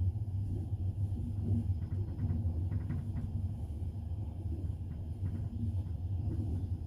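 A double-decker passenger train running, heard from inside the carriage: a steady low rumble of wheels on rails, with a few faint clicks partway through.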